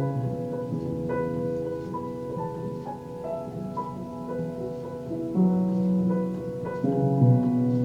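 Piano playing a slow, simple self-composed tune: single notes and chords struck about every half second and left to ring, with lower bass notes coming in about five and a half seconds in.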